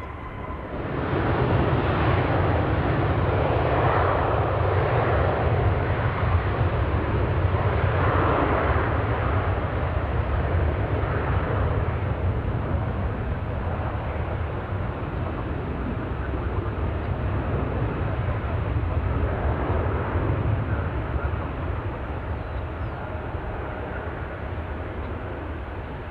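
Jet airliner's engines passing close by: a broad rushing roar with a deep rumble swells up sharply about a second in, holds loud, then slowly fades toward the end.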